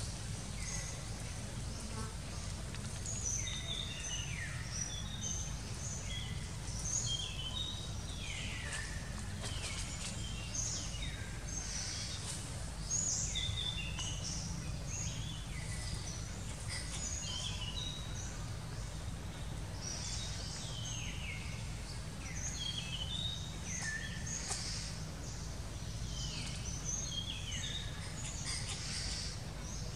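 Forest birds calling: many short high chirps and quick falling whistled notes, starting a few seconds in and repeating over and over, over a steady low rumble.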